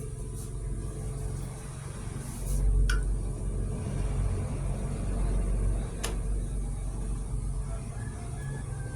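A steady low engine-like rumble that swells for a few seconds mid-way, with two sharp clicks about three seconds apart.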